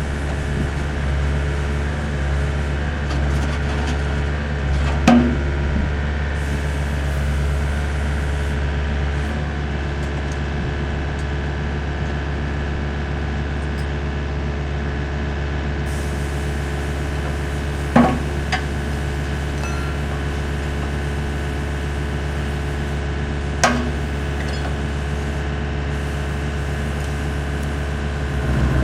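Wacker Neuson 6003 excavator's diesel engine running steadily, with three sharp clanks spread across the time, typical of steel bucket and quick-coupler parts knocking together.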